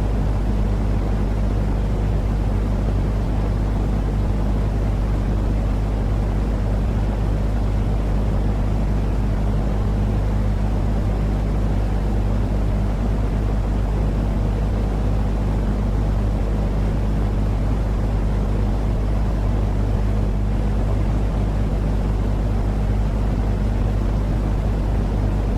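Steady, unchanging low rumbling noise with a deep underlying hum, a continuous sleep-noise track for babies.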